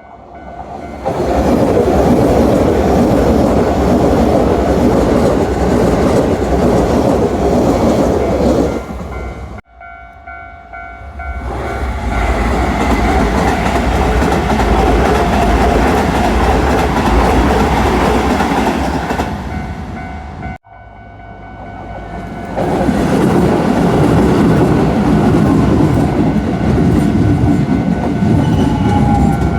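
Trains passing at speed, wheels clattering over the rail joints. It comes as three separate clips that cut off abruptly, about ten and about twenty seconds in.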